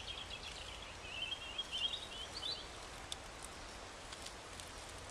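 A small songbird singing a quick, warbling, trilling phrase through the first half, over faint steady outdoor background noise. A few faint ticks follow.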